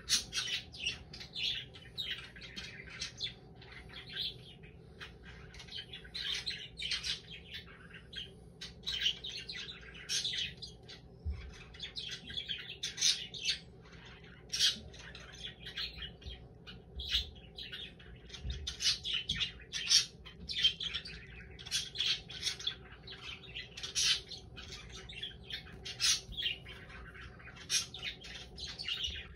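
Birds chirping and squawking in a continual run of short, high calls, several a second, over a faint steady hum.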